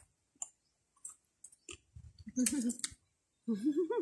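Mouth sounds of a person eating a fresh fruit: scattered wet clicks and smacks of chewing and sucking, with two short wavering hums from the eater, about two and a half and three and a half seconds in.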